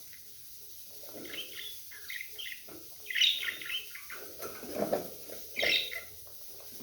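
Budgerigars chirping and chattering in a run of short bursts, loudest about three seconds in and again near the end.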